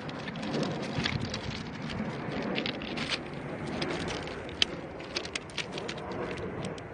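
Loose rocks crunching and clicking under hands and body during push-ups, irregular sharp clicks over a steady background rumble.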